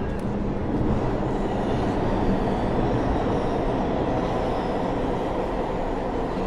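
Subway train running beneath the street: a steady, dense rumble with a low hum.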